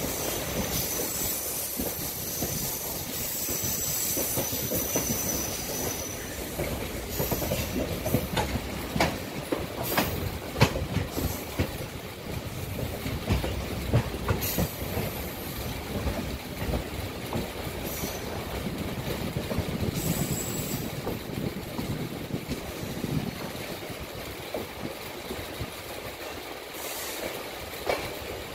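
Train running along the track, heard from on board: a continuous rumble of wheels on rail with scattered sharp clicks over the rail joints. A high, thin wheel squeal comes in a few seconds in and fades, and returns briefly later.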